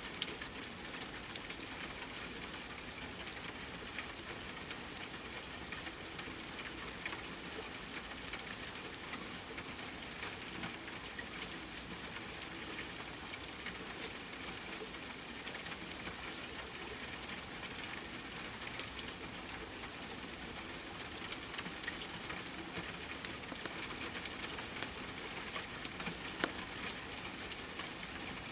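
Steady rain mixed with a crackling fireplace: an even hiss dotted with many small sharp pops and clicks.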